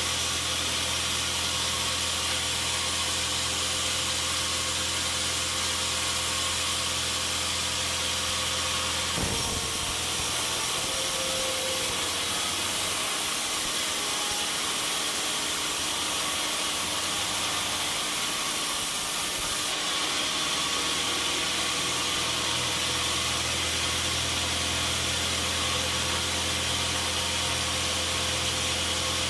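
Sawmill machinery running with a steady motor hum. About nine seconds in the low hum drops away and a higher hiss takes over for roughly ten seconds, then the hum returns.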